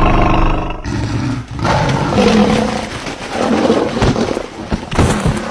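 Deep animal roaring: a low, pitched roar in the first second, then a longer, rougher stretch of roaring.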